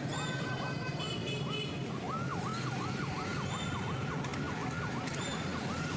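Emergency vehicle siren sounding, its pitch sweeping up and down, slowly at first and then in a fast yelp of about three sweeps a second, over a steady low hum of traffic.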